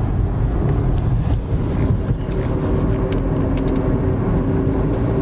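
Car road noise while driving: a steady low rumble of engine and tyres, with a steady hum that grows stronger about halfway through.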